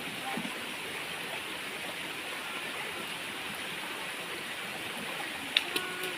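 Steady rushing of flowing stream water, with a couple of faint clicks near the end.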